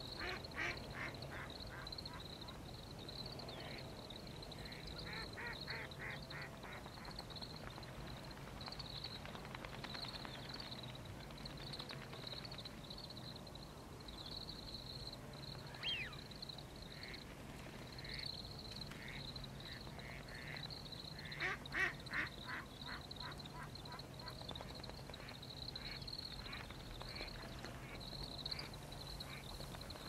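Birds calling: three short runs of quick, evenly repeated nasal notes. One comes near the start, one about five seconds in, and the loudest about twenty-one seconds in.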